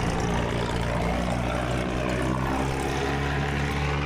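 Light propeller plane's piston engine running steadily, a constant drone heard from inside the cabin.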